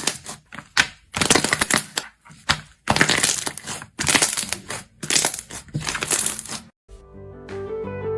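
Slime being squeezed and pressed by hand, crackling and popping in repeated short bursts. About seven seconds in, it cuts to acoustic guitar music.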